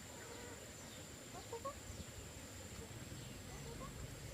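Chickens clucking faintly, a few short calls about a second and a half in and again near the end, over a steady thin high-pitched tone.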